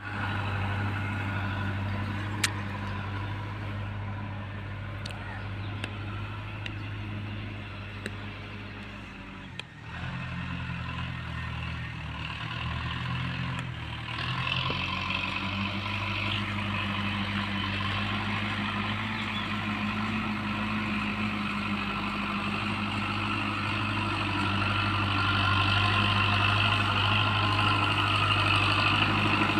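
Tractor engine running steadily, its pitch dipping and shifting for a few seconds about ten seconds in, then running on and growing louder near the end.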